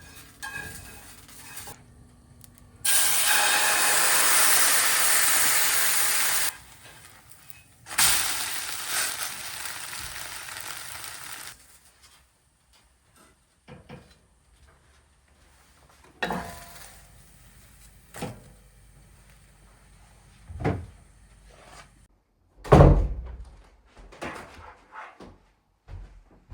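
Food sizzling in a hot frying pan: two stretches of hiss, the second fading after it starts. Several sharp knocks follow later, the loudest near the end.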